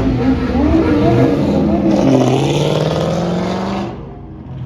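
A car engine revving up and down, then holding a slowly rising note as the car accelerates. It cuts off suddenly near the end.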